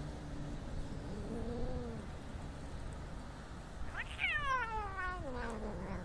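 A domestic cat meowing: a short low call, then about four seconds in a long meow that starts high and slides steadily down in pitch.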